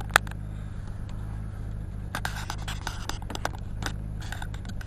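Jeep engine idling as a steady low hum. A loud click comes just after the start, and from about two seconds in there are many scattered clicks and scrapes of something being handled close to the microphone.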